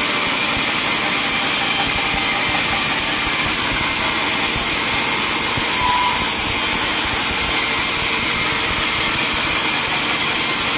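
Sawmill saw cutting wood: a steady, loud, hissing noise that holds level throughout.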